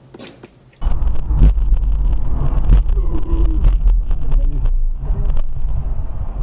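A vehicle's loud low rumble of engine and road noise, with crackling buffets, starts abruptly about a second in and runs on steadily.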